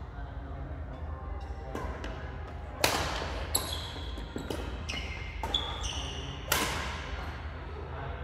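Badminton doubles rally in a hall: sharp racket hits on the shuttlecock, about seven over several seconds, the loudest about three seconds in, with shoes squeaking briefly on the court floor between hits.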